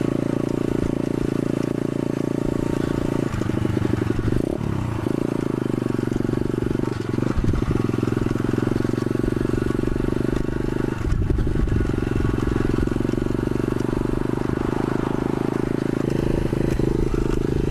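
125cc pit bike's single-cylinder four-stroke engine running steadily while being ridden, its note dipping and picking up again twice, about four seconds in and about eleven seconds in, as the throttle or gear changes.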